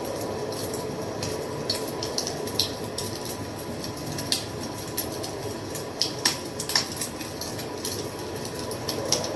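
Wood fire crackling: irregular sharp pops and snaps over a steady low rush of burning, with a few louder pops about six to seven seconds in.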